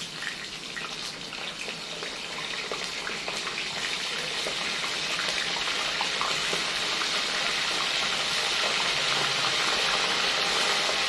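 Onion frying in hot oil in a saucepan: a steady sizzle that grows louder over the first several seconds, with small pops and crackles.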